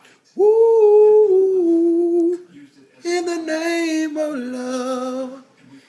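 A man singing unaccompanied, holding two long wordless notes. The first starts about half a second in and the second about three seconds in, and each steps down in pitch as it is held.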